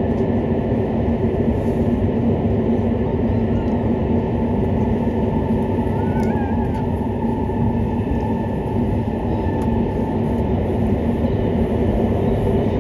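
Hokuriku Shinkansen train running at speed through a tunnel, heard from inside the passenger cabin: a steady rumble of wheels on rail and running gear with a constant low hum.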